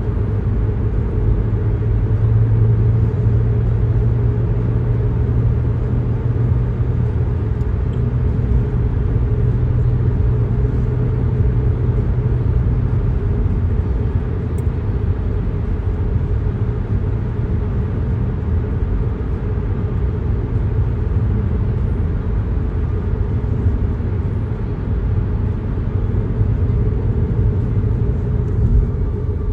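Steady low rumble of a moving vehicle, with a low drone that fades about halfway through.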